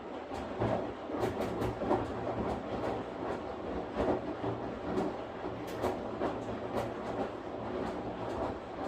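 Washing machine running, its drum turning with a steady low hum and irregular knocks and clatters from the load tumbling. It gets louder suddenly at the very start.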